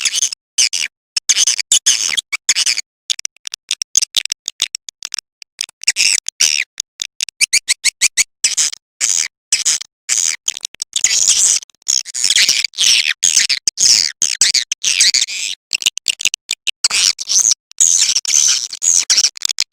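Swiftlet lure-call recording: rapid, high twittering and chirping of swiftlets, of the kind played in swiftlet houses to draw birds in to roost. It is loud and dense, cut by many brief sudden gaps.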